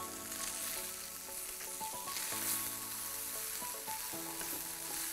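Beef strips, onions, mushrooms and bell peppers sizzling as they fry in a pan, stirred with a spoon. Soft background music plays underneath.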